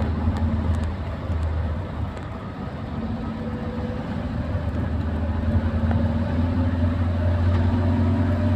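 Car engine and road noise while driving: a steady low hum with an engine note that climbs slightly in the second half.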